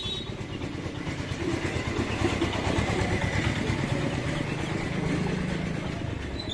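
A motor vehicle engine, likely a motorcycle, running close by. Its low rumble swells over the first couple of seconds and eases off near the end.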